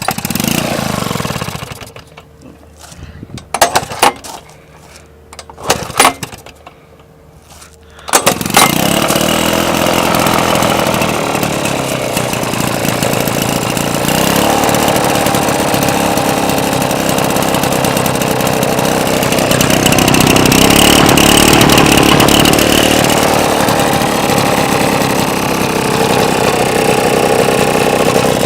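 Iron Horse two-stroke engine giving a few short bursts over the first several seconds. It catches about eight seconds in and keeps running steadily.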